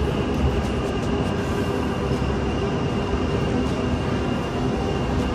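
Steady rumble and hum of a Chinese high-speed bullet train at a station platform, with a thin high-pitched whine above it.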